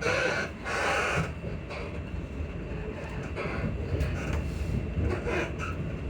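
Class 334 Juniper electric multiple unit running, heard from inside: a steady low rumble with short, irregular squeaks and creaks from the suspension.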